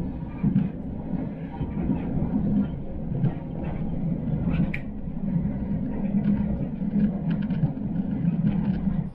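SNCF TER regional train running along the track, heard from inside the carriage: a steady low rumble with scattered clicks and knocks from wheels and coach, and a brief high squeal about halfway through.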